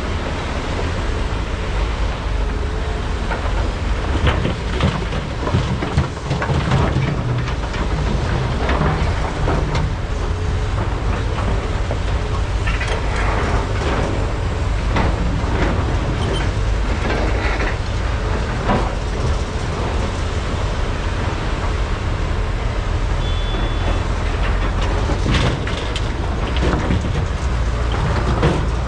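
Large hydraulic excavators' diesel engines running steadily under load, with repeated short clatters and scrapes of dirt and rock as buckets dig and load trucks.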